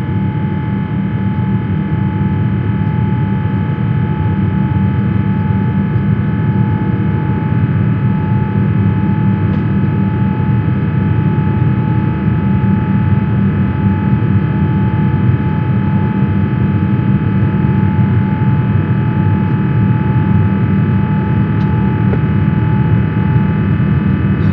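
Steady cabin noise of an Airbus A350-1000 in flight: the even drone of its engines and the air streaming past the fuselage, with several steady hum tones running through it.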